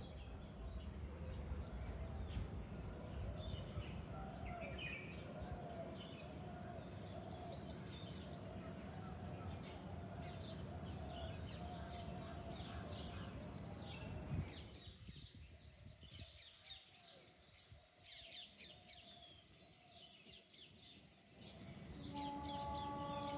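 Several different birds chirping and trilling over a low background rumble, which falls away about two-thirds of the way through. Near the end a steady droning tone with overtones starts.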